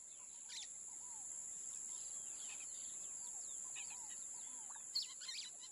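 Faint outdoor ambience of small birds chirping in short, scattered calls over a steady high-pitched drone, with one slightly louder chirp about five seconds in.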